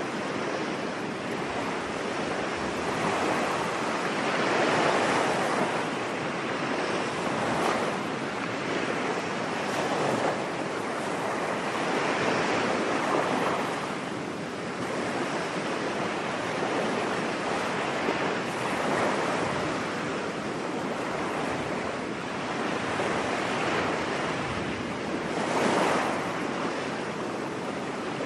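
Ocean waves breaking and washing onto a beach, a steady surf noise that swells and eases every few seconds.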